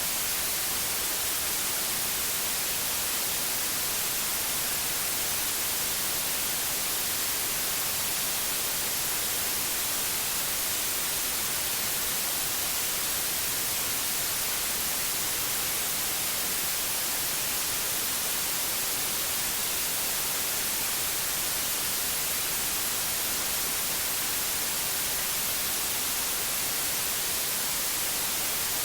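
Steady electronic white noise: an even, unbroken hiss, brightest in the high frequencies, with no changes.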